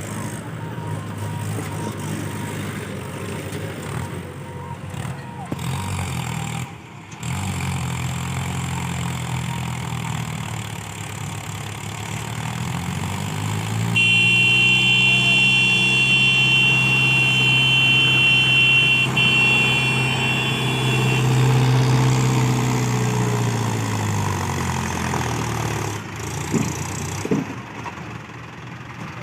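Mahindra Yuvo tractor's diesel engine running, revved up about halfway through, held high for several seconds, then eased back down. While it is revved, a horn sounds continuously for about seven seconds.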